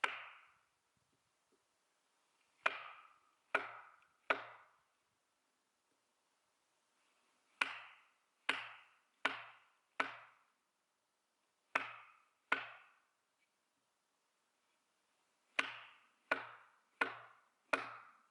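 Axe chopping into an oak log to carve a guide line for the split: sharp strikes with a short ring after each, in runs of two to four about a second apart, with pauses between runs.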